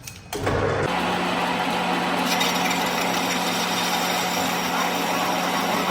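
A power tool starts about a third of a second in and runs steadily on metal work, with a constant hum under a harsh, noisy grind that turns brighter about two seconds in.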